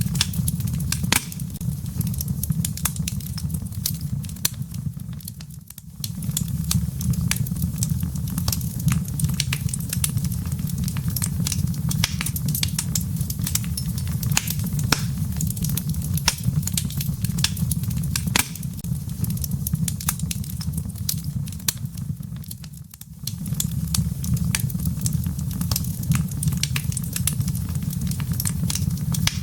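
Wood fire in a fireplace crackling, with frequent sharp pops and snaps from the embers over a steady low rumble of the flames. The low rumble drops away briefly twice, about five seconds in and about twenty-two seconds in.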